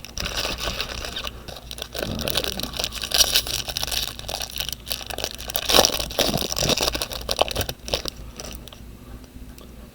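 2018 Bowman baseball card pack wrappers being torn open and crinkled, with cards scraping against each other, in irregular crackly bursts that quieten over the last couple of seconds.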